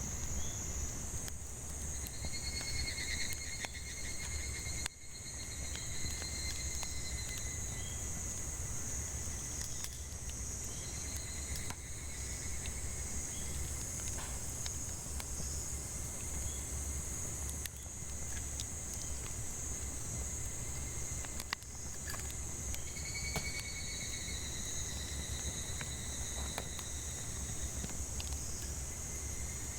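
Cicadas shrilling in a steady high drone, over firewood crackling and popping with scattered sharp clicks. A few held whistled notes come and go near the start, in the middle and near the end.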